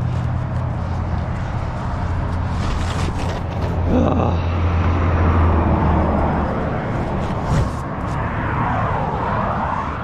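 A vehicle engine running with a steady low hum that cuts off about three quarters of the way through.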